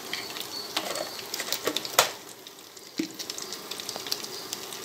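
Sliced onion and scrambled egg sizzling in hot oil in a pot, a steady crackle, with a sharp knock about two seconds in and a duller thump a second later.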